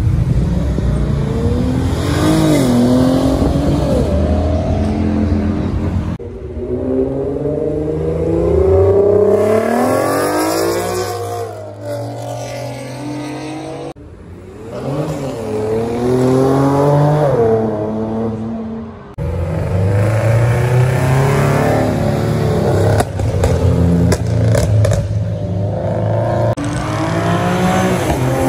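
Car engines revving: the engine note climbs and falls back again and again over a steady low idle. The sound changes abruptly a few times, as from one car to another.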